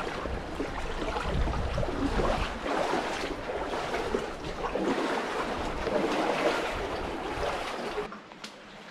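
Sea water sloshing and lapping around a kayak, with wind buffeting the microphone in the first couple of seconds. The noise falls away abruptly near the end.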